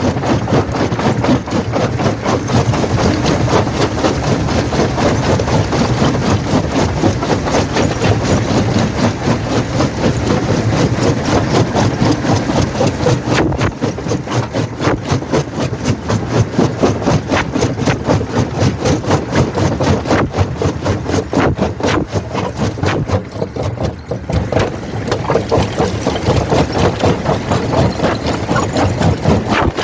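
Primary jaw crusher running under load and crushing quarry rock: a steady machine drone packed with rapid, constant cracking and rattling of stone.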